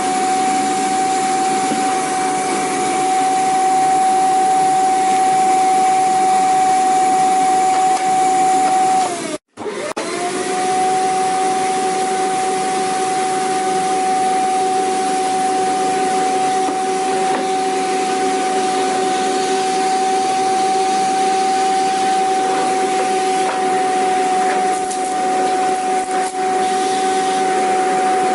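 Vacuum cleaner motor running steadily with a high whine over a rushing hiss. About nine seconds in, the whine dips in pitch, the sound cuts out for a split second, and the whine climbs back up.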